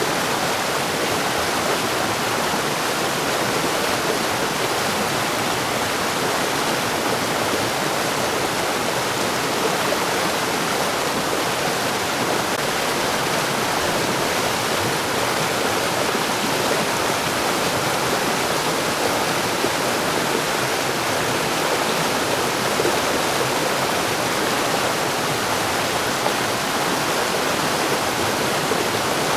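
Mountain stream rushing steadily over rocks, a dense, even wash of water noise with no pauses.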